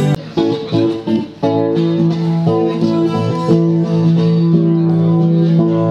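Guitar playing plucked chords with no singing, stopping and starting a few times in the first second and a half, then ringing steadily.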